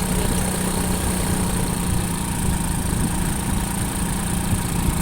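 Motorcycle engine running steadily, a constant hum over a rough low rumble.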